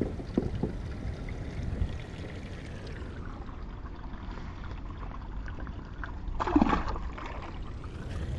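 Water sloshing and lapping around a float tube on the harbor, over a steady low wind rumble on the microphone, with a few small knocks in the first second and a short louder burst about six and a half seconds in.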